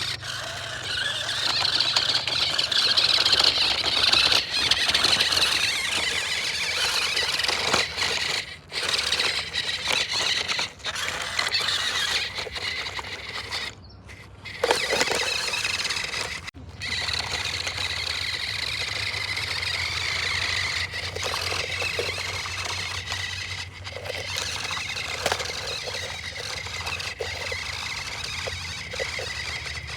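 Small electric motor and gears of a toy RC vehicle whining steadily, with a few short breaks before the middle.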